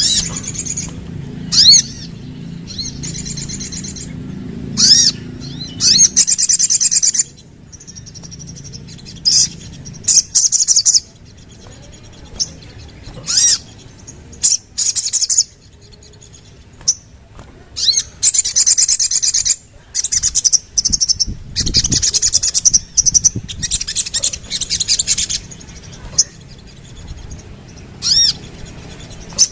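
Sogok ontong (sogon, the little spiderhunter) calling over and over in quick bursts of rapid, high-pitched chattering notes, each burst up to about a second and a half long, with short pauses between.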